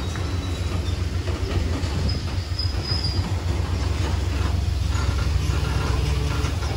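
Gravel train rumbling steadily, a low, even noise of locomotive and railcars with a few faint, brief high squeals.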